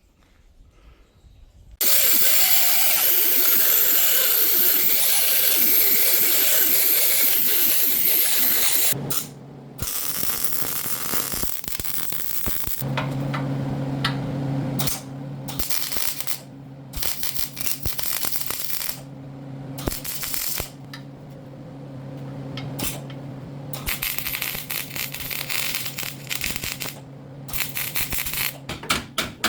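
Metalworking on a race car's steel frame as it is plated up and welded: a steady noisy run of about seven seconds, then many short stop-start runs a second or two long, each with a low hum under it.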